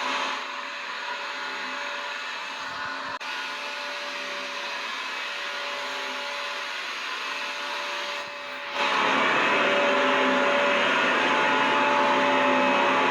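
Vacuum cleaner running continuously: a steady motor whine over a rushing hiss. It turns quieter and duller just after the start, with a brief dropout about three seconds in, then comes back to full strength near the end.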